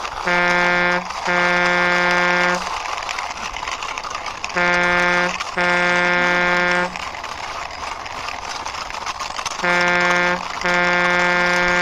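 Truck horn honking in three pairs, a short blast then a longer one, each on one steady pitch, with pauses of about two seconds between the pairs.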